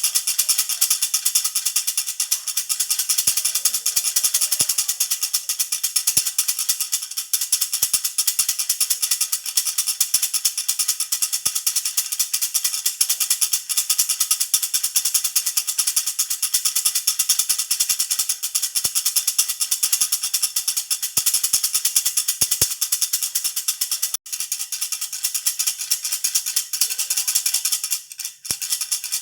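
Baby rattle (jhunjhuna) shaken steadily and fast: a dense, continuous clatter of tiny rattling strikes. It breaks off for a moment about 24 seconds in and dips briefly near the end.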